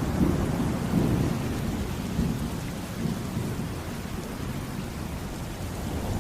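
Rolling thunder over steady rain. The low rumble is strongest in the first couple of seconds, then fades back under the rain.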